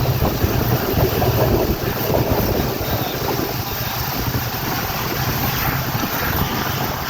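Steady rumble of a moving vehicle with rushing wind buffeting the microphone.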